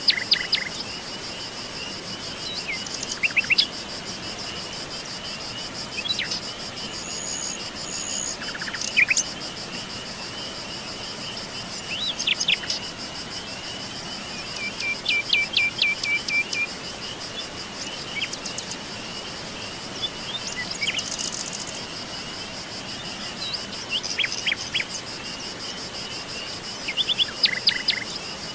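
Songbirds chirping and singing in short scattered phrases, with a few brief trills, over a steady high-pitched insect trill.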